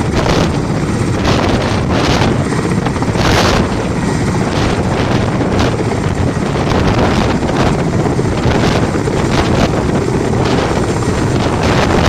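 Helicopter running loud and close, a steady rotor and engine din with broad swells about once a second, and wind buffeting the microphone.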